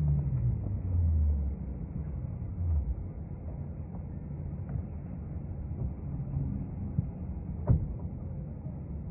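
City bus heard from inside: its drive note falls in pitch as it slows over the first second or so, then settles into a steady low rumble. A single sharp knock comes about three-quarters of the way through.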